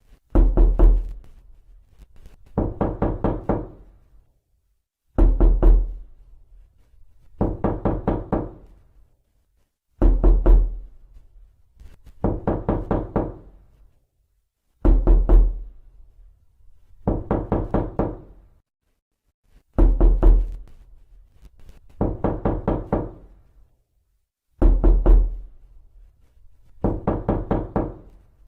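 Knocking on a door in repeated bursts of several quick raps, about a dozen bursts with a new one every two and a half seconds or so.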